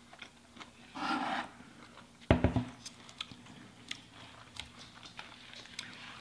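Close-up eating sounds: chewing, lip smacking and soft wet clicks from people eating cheeseburgers, with a single sharp thump a little over two seconds in.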